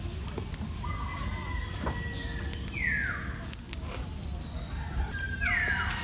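Birds calling: shorter steady high notes, then two calls that sweep downward in pitch, one about three seconds in and one near the end, over a low steady rumble.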